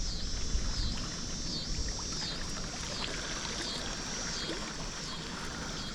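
Steady rush of flowing water, with a high falling call repeating about once a second above it.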